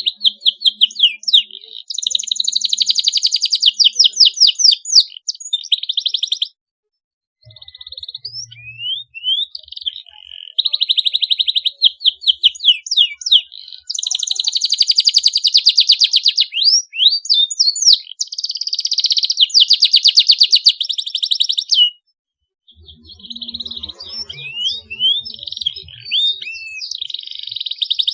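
Domestic canary singing in long bursts of fast, sharp trills and rolls, mixed with quick rising and falling whistled notes. The song breaks off into brief silence twice, about a quarter of the way in and again about three quarters of the way in.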